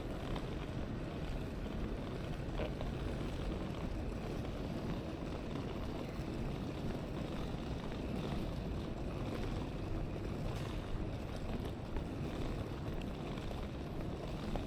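Steady low rumbling ambience of a railway station hall, with a few faint clicks.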